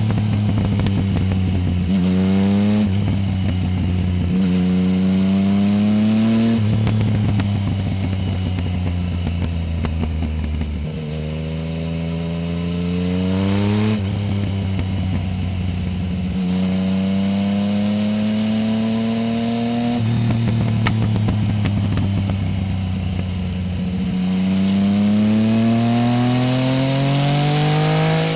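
Yamaha Tracer 900 GT's 847 cc three-cylinder engine through a full Roads Italia exhaust, accelerating hard up through the gears. The pitch climbs and drops at each upshift, about eight times, with a few steadier stretches in between.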